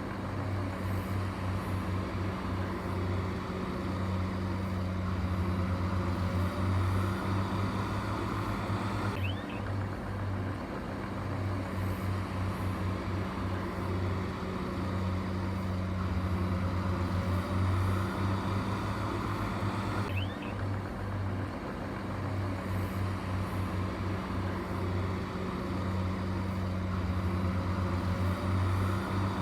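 Heavy diesel engine of earthmoving machinery running steadily with a low hum; the same stretch of engine sound repeats about every eleven seconds.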